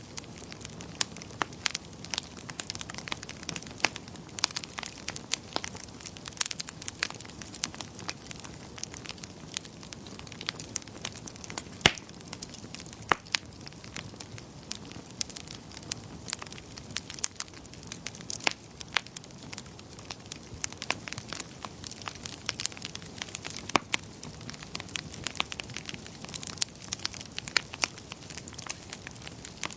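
Wood fire crackling: many sharp, irregular pops and snaps over a soft steady hiss.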